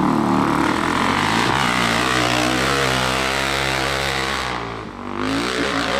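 Dirt bike engine running hard at high revs as the bike climbs a steep slope. It eases off briefly near five seconds, then revs up again.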